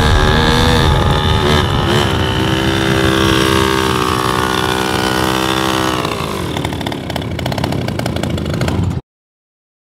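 Vehicle engine held at high, steady revs, with the revs dropping about six seconds in and the sound stopping abruptly near the end.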